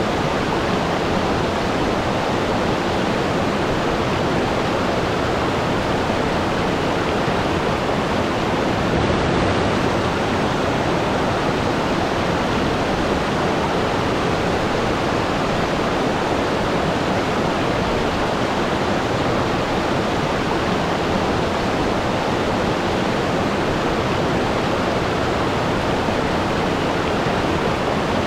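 Waterfall: water falling steadily in an unbroken, even wash of noise.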